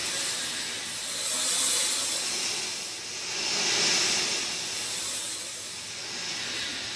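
Steady rain, a dense hiss that swells and eases about every two seconds.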